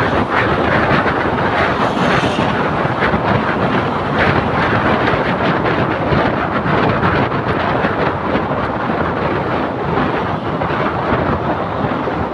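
Wind buffeting the microphone over the steady rushing noise of a moving vehicle.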